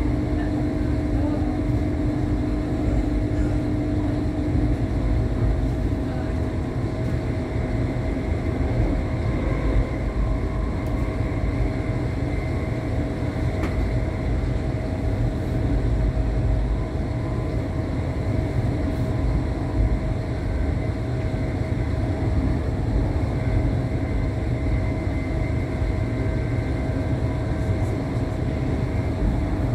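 Steady low rumble of a passenger train running on the rails, heard from inside the carriage, with a constant faint hum through it.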